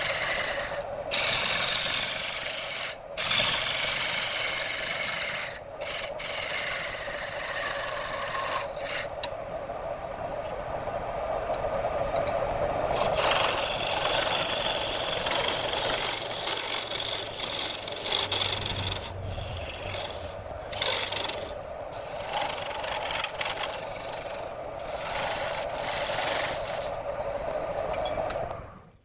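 Wood lathe with a turning tool cutting into spinning wood: a continuous rough scraping that briefly breaks off several times as the tool lifts from the work, then stops abruptly near the end.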